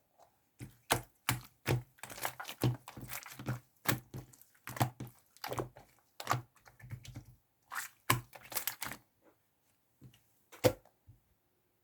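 A run of irregular, quick clicks and taps like keystrokes, thinning out about nine seconds in to a few single clicks near the end.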